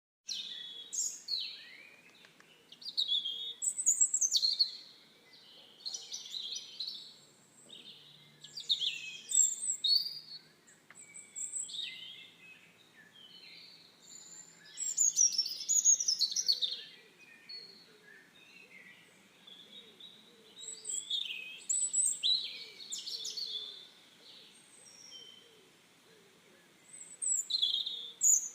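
Birdsong: several birds singing and calling, with short high phrases overlapping and coming in bursts.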